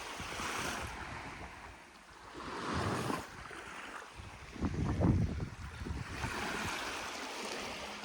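Small sea waves washing onto a beach in several surges, with low buffeting of wind on the microphone about five seconds in.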